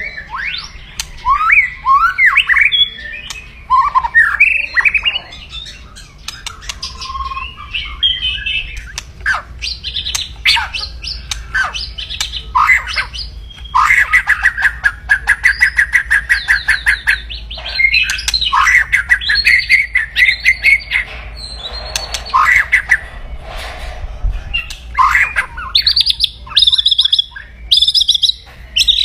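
White-rumped shama (murai batu) giving loud, aggressive 'kretekan' calls: fast harsh rattles mixed with short sweeping whistled notes. A long rattle runs through the middle, and short high rattles repeat near the end. These are the challenge calls of an excited shama.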